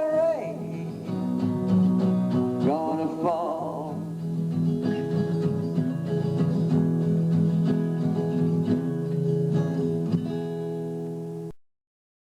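Acoustic guitar strumming the closing chords of a folk song. A man's voice holds a sung note at the start and sings another short wavering phrase around three seconds in. The music then cuts off abruptly near the end.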